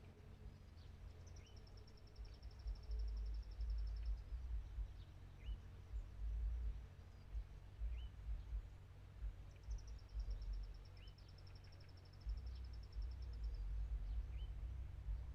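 Wind gusting on the microphone with a fluctuating low rumble. Wild birds call over it: a short rising chirp repeated about every second and a half, and a high rapid trill lasting about three seconds, heard twice, once about a second in and again near the middle.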